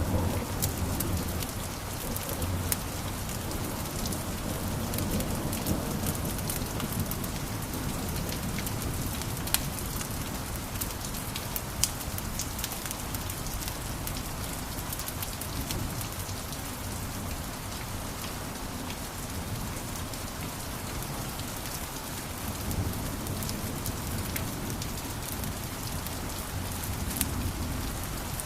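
Wood fire crackling in a fireplace: a steady hiss and low rumble of flames with constant small crackles, and a couple of louder pops near the middle.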